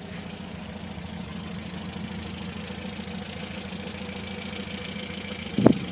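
MGB Roadster's four-cylinder engine idling steadily, with an even low pulsing beat. A brief louder knock-like sound comes near the end.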